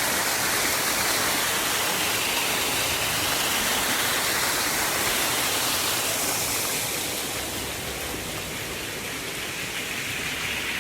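Steady rush of water from a small creek cascade, an even hiss that eases slightly in the second half.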